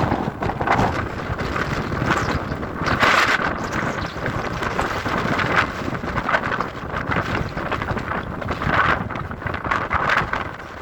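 Strong wind buffeting the microphone: a rushing roar that swells and eases in gusts, loudest about three seconds in and again near the end.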